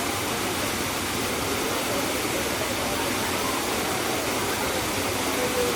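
Steady rush of a waterfall, an even roar of falling water that does not change.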